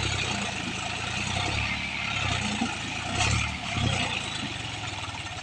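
Farm tractor engine running steadily as it tries to drive out of deep paddy-field mud, its hum swelling a little a few times.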